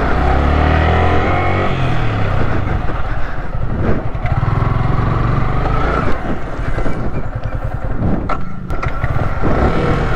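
Yamaha R15 V3's single-cylinder motorcycle engine revving up and down repeatedly, its pitch rising and falling, as the bike takes a run-up to climb rough off-road ground, with wind and tyre noise underneath.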